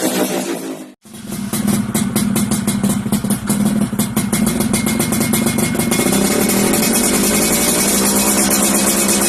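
Yamaha F1ZR two-stroke single-cylinder engine running through an RTX racing exhaust. Its revs fall, it cuts off sharply about a second in, then it runs steadily at a raised idle with rapid crackling from the exhaust.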